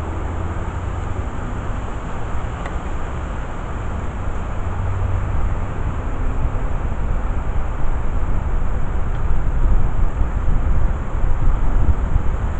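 Steady low outdoor rumble with no distinct events, swelling louder in the second half.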